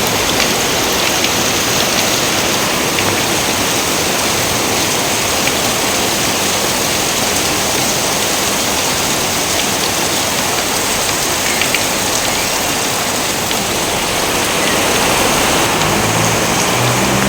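Steady rain pouring, with scattered drop ticks; a low rumble joins near the end.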